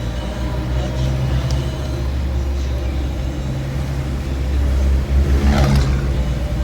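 Car driving: a steady low engine and road rumble, with a brief louder rushing swell about five and a half seconds in.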